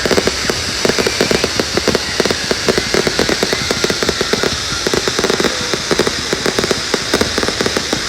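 Fireworks crackling and popping without pause, a dense run of many sharp cracks a second.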